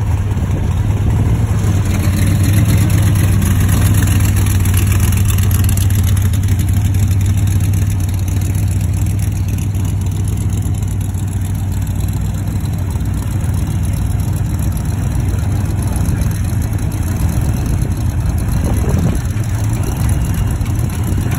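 Loud hot-rod car engines idling and creeping along at low revs: an early Corvette pulling away and a Chevy II Nova gasser rolling up. The engine sound swells a little a couple of seconds in, then stays steady.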